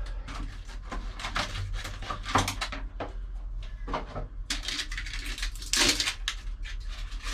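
Irregular clicks and short rustles of a new oil filter being handled and taken out of its packaging, with a longer rustle near the end, over a steady low hum.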